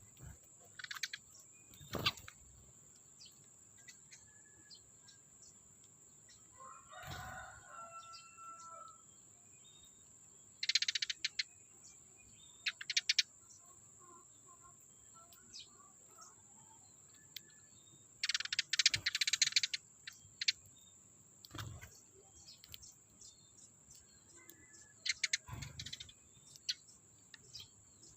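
Eurasian tree sparrows chirping in short bursts, several times, with a longer call about a quarter of the way in, over a steady thin high-pitched tone. A few soft knocks are heard now and then.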